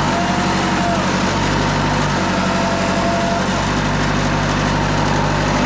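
Wood-Mizer LT40 Super Hydraulic bandsaw mill running steadily, its engine note shifting a few times.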